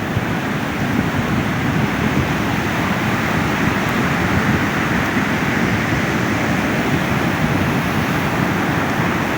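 Ocean surf breaking and washing up a beach: a steady rush of water noise.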